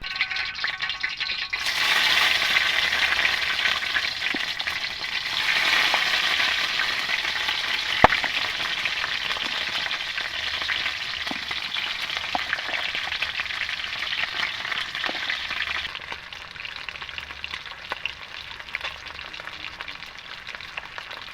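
Food frying in hot oil over a camp fire, a dense sizzle that starts suddenly, gets louder about two seconds in and settles down to a quieter sizzle in the last few seconds. There is a single sharp knock midway, such as a utensil against the pan.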